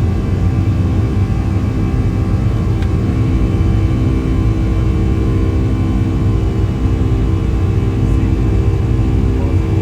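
Boeing 757-200 cabin noise: a loud, steady low rumble from the jet engines and airflow, with several steady engine tones held level throughout.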